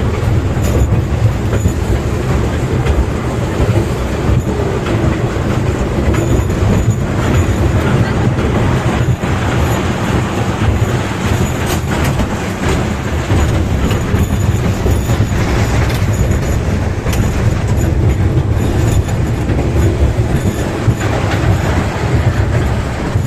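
A train running along its track: a steady rumble with the wheels clicking over the rail joints.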